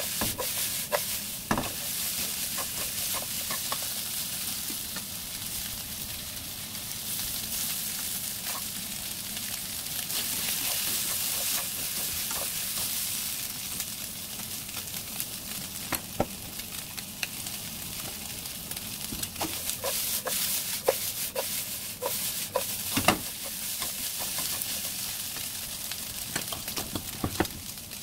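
Julienned potatoes, carrots and ham sizzling in oil in a nonstick wok, a steady hiss. Scattered clicks and scrapes of the food being stirred and tossed, coming thicker a little past the middle.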